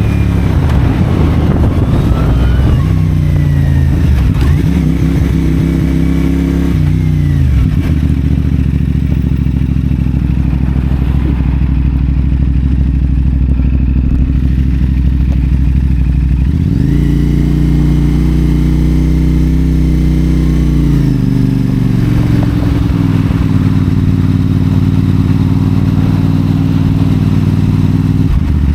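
CFMoto 450SR's 450 cc parallel-twin engine through a Yoshimura AT2 slip-on exhaust, heard while riding. Engine speed rises and falls through gear changes at first, then settles low and steady for a while. About halfway in it climbs sharply and holds, then eases off to a steady medium pace.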